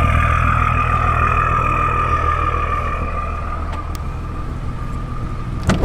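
A car engine idling with a steady low hum under a steady high-pitched whine that fades away over the last few seconds, then a sharp thump right at the end.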